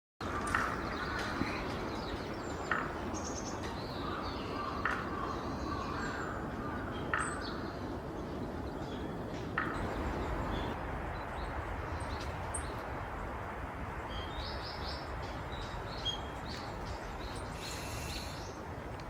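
Small wild birds calling: short sharp call notes every second or two, then high thin chirps near the end, over a steady low background hum.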